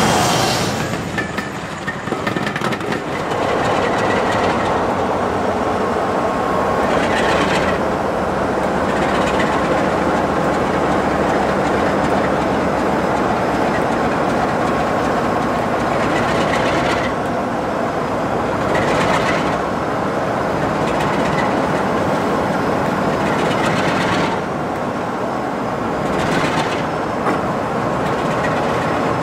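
Diesel-hauled passenger train passing close by. The coaches' wheels rumble and clatter on the rails, with a clack now and then, under the running of the Peak class diesel locomotives ahead.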